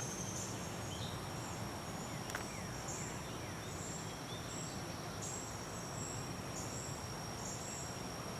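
Summer evening woodland chorus: a steady, high insect drone, with short high chirps repeating about once a second and a few brief bird notes.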